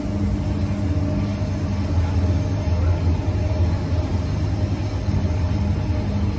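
Running noise heard from inside a moving passenger train: a steady low rumble with a held low hum over it.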